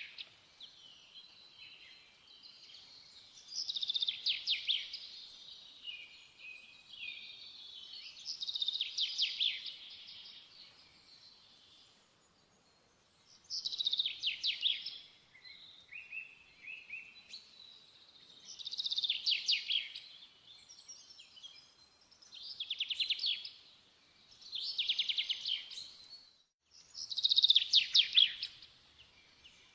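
A songbird singing, with about seven short trilled phrases of quick high notes, each a second or two long, coming every four to five seconds.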